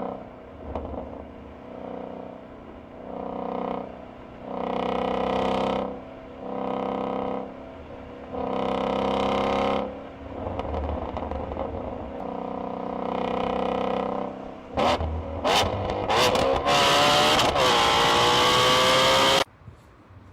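Car exhaust revving in a series of short blips, each rising and falling. About three-quarters of the way in, a louder, raspier run follows with its pitch climbing, then cuts off suddenly.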